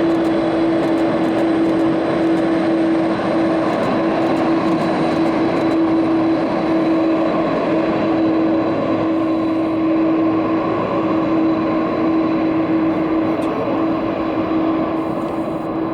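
Boeing 767 jet engines running, a steady loud rush with a constant droning tone in it.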